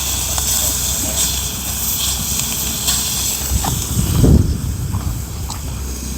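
Sea bass and aged kimchi sizzling on an iron griddle over a wood fire: a steady hiss with a few small ticks, and one low thump about four seconds in, the loudest moment.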